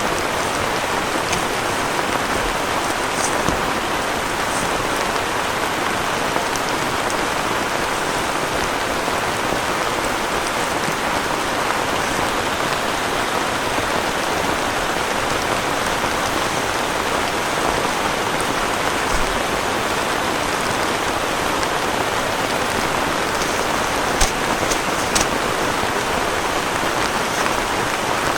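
Heavy rain falling steadily, with a couple of sharp taps near the end.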